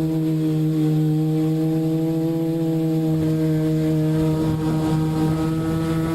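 Multirotor's electric motors and propellers humming at a steady pitch, a held low drone with overtones, with some rough rushing noise mixed in from about halfway through.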